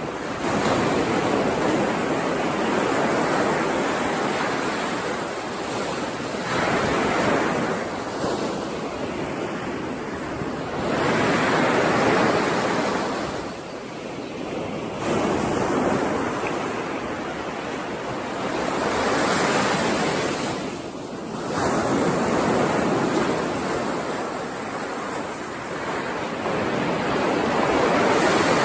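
Sea surf: waves rolling in one after another, each surge swelling and fading over a few seconds, about every four seconds.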